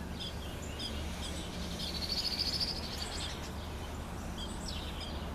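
Birds chirping: a run of short, high chirps repeating, with a brief fast trill about two seconds in, over a low steady rumble.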